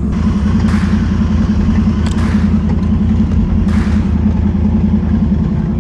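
Can-Am Renegade 1000 XMR ATV's V-twin engine running steadily under way on a trail, with a few short bursts of hiss over it.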